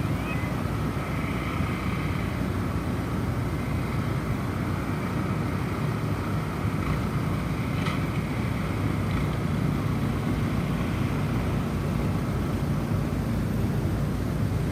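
Snowstorm wind blowing steadily, a deep continuous rush heaviest in the low end. Soft wind chimes ring faintly through the first half.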